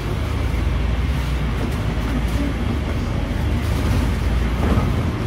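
Cabin noise inside a Scania K310UD double-decker bus under way: its diesel engine and the road running as a steady low hum.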